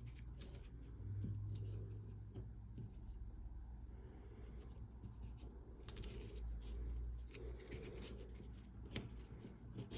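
Faint rustling of cardstock and linen thread being handled while a knot is adjusted, with a few light ticks.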